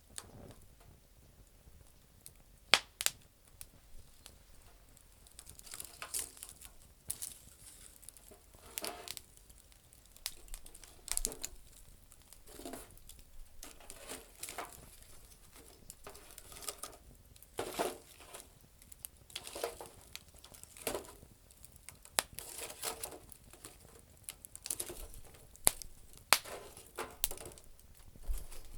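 Campfire of damp firewood crackling, with irregular pops and short crackly bursts; sharp snaps about three seconds in are the loudest.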